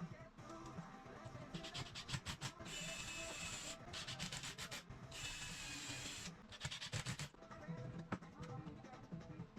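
Rasping rubbing strokes, as in sanding, alternating with bursts of rapid clicking, over quiet background music.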